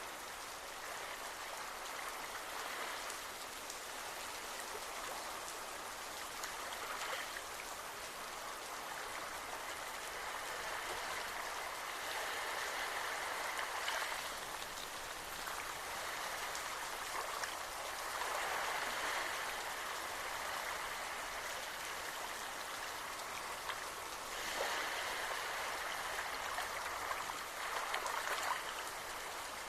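Steady rain falling, with many small drop impacts, swelling louder for a few seconds several times.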